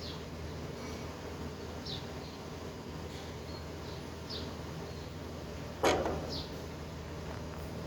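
A small animal making short, high, falling chirps every couple of seconds, with one louder, sharper cry about six seconds in.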